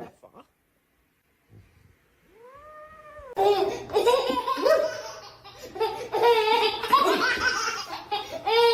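Hearty human laughter, loud and broken into rapid bursts, starting about three and a half seconds in; just before it, a single drawn-out call that rises and falls in pitch.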